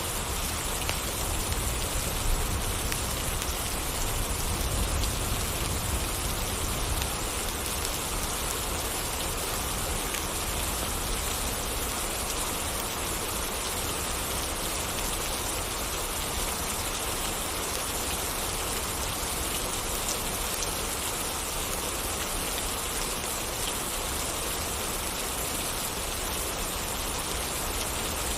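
Steady rain falling, an even dense hiss of drops, with a low rumble underneath for the first several seconds that then eases off.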